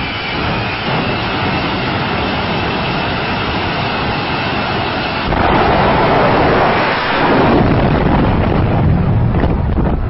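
Jet engine of a jet-powered truck running with a loud, continuous roar, a high whine in it at first, getting louder about five seconds in.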